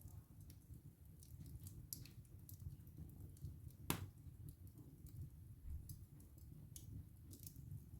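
Wood fire in a fireplace crackling: scattered sharp pops of burning wood, with one loud crack about four seconds in, over a low steady rumble.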